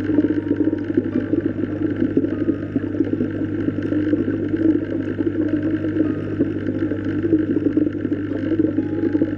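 Steady underwater ambience: a constant low hum under a dense churning, crackling water noise, with no clear change throughout.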